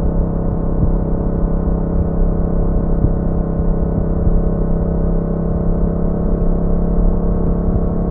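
Yamaha MT-07's 689 cc parallel-twin engine and exhaust running steadily at an even engine speed, with no revving.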